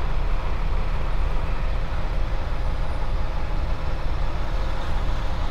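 Semi truck's diesel engine running steadily, a low rumble heard from inside the cab, with a faint steady hum over it.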